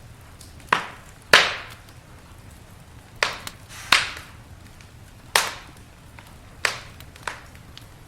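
Wood fire crackling, with about seven loud sharp pops at irregular intervals, each dying away quickly, over faint small crackles.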